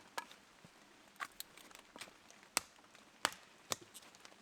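Irregular sharp taps and clicks, about eight in four seconds, over a faint steady background.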